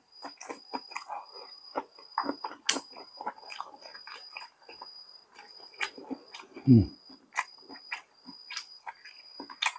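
Close-miked eating sounds: irregular chewing, lip smacks and mouth clicks, with one louder low thud about seven seconds in.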